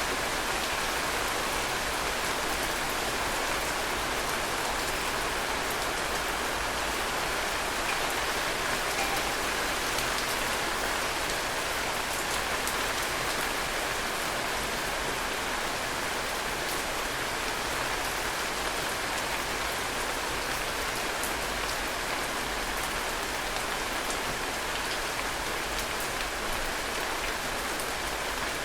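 Heavy rain falling steadily on hard surfaces, a dense even hiss with many small drop patters.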